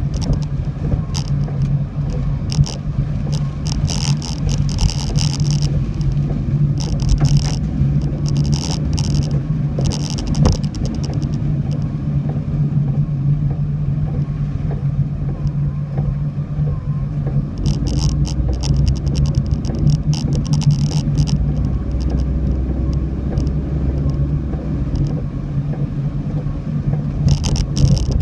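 Car driving with a steady low engine and road drone, broken by repeated bursts of high crackling hiss.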